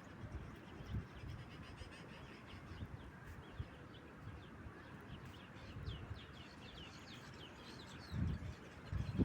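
Faint chirps from birds, many short calls repeating over a low background rustle, with a louder low rumble about eight seconds in.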